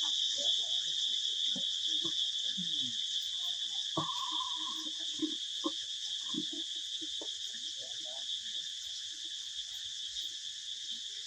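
Steady, high-pitched insect chorus, with faint scattered low sounds underneath.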